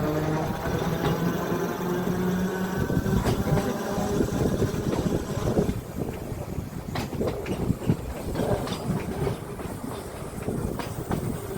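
Electric tram running along narrow-gauge track: a motor whine that fades and stops about halfway through, over the wheels clicking and knocking across the rail joints.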